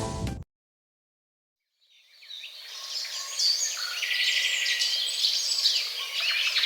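Several birds chirping and singing over each other, fading in after a couple of seconds of silence, with the tail end of music cutting off at the start.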